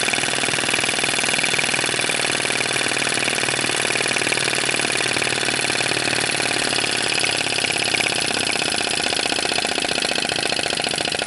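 Bengs flame licker (vacuum) model engine running steadily with a fast, even mechanical clatter, driving its small generator.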